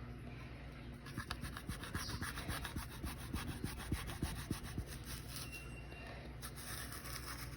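Knife sawing through an apple in quick back-and-forth strokes, a rapid scraping rub for about five seconds.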